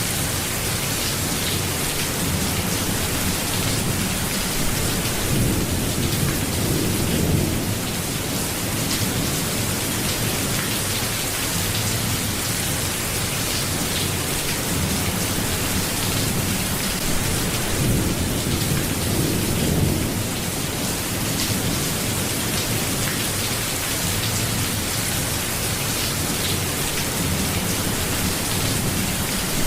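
Steady rainfall hissing evenly, with low rolling rumbles that swell and fade twice, about a third of the way in and again past the middle.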